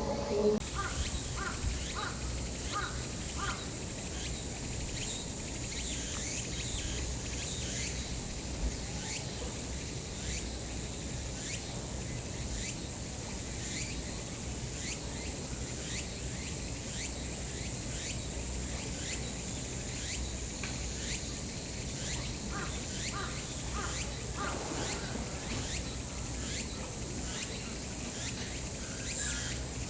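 Summer insects calling: a steady high hiss with regular high pulses about one and a half times a second, over a low steady hum. A few short, quickly repeated calls come near the start and again about three quarters of the way through.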